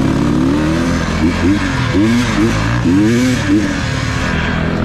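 Enduro dirt bike engine revving up and falling back again and again as the throttle is worked, its pitch rising and dropping several times.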